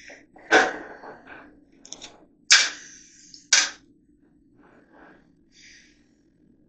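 Hammer blows driving small nails into wooden lath: three sharp, loud strikes with a few lighter taps between them, all in the first four seconds.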